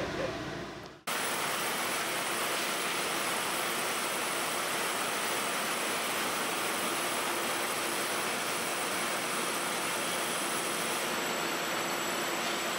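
Steady rushing hiss of a Taroko Express electric train standing at a station platform. It starts abruptly about a second in and holds level, with faint steady high-pitched tones.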